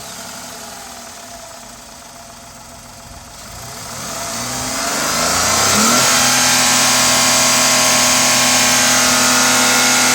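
Tata Zica's 1.2-litre three-cylinder petrol engine idling just after starting, then revved up from about four seconds in and held at steady high revs.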